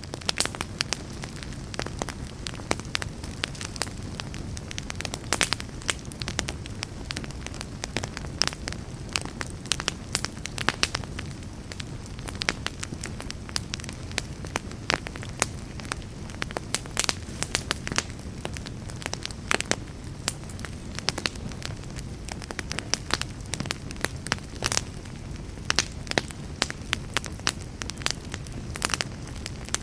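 Wood campfire burning and crackling: a steady low rush of flames with frequent sharp pops and snaps scattered throughout.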